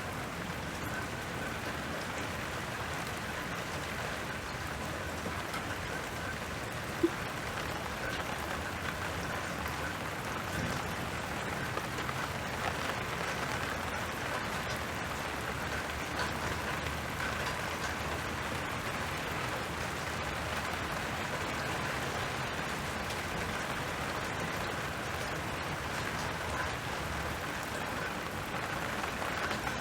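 Steady rain falling in an even patter, with one sharp, louder tap about seven seconds in.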